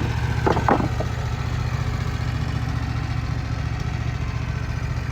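Portable sawmill's engine running steadily at idle, with a brief sharper sound about half a second in.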